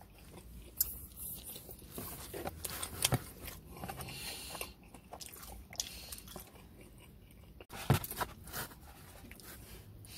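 A person biting and chewing pepperoni pizza close to the microphone, with irregular crisp crunches of the crust. The sharpest crunches come about a second in, around three seconds and near eight seconds.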